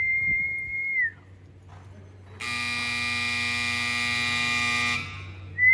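A loud whistle held for about a second, dropping in pitch at the end, then an arena time buzzer sounding steadily for about two and a half seconds and cutting off abruptly, signalling that the run's time is up; another short whistle begins right at the end.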